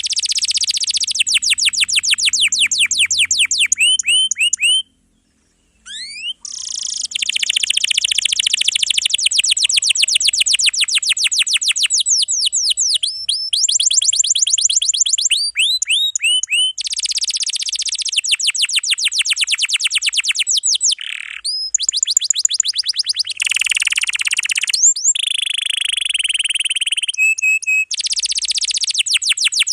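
Domestic canary singing long, dense rolls: runs of rapidly repeated high-pitched trilled notes, with a brief pause about five seconds in.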